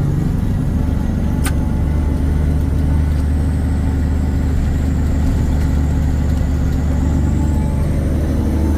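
1984 Peterbilt 359's Cummins diesel engine running with a steady low drone as the truck drives, heard from inside the cab. There is one faint click about a second and a half in.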